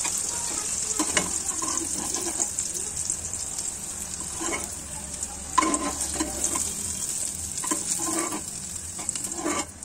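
Fried cluster figs and hot mustard oil sizzling steadily in a metal kadhai, while a slotted spoon scoops the figs out, scraping and knocking against the pan several times.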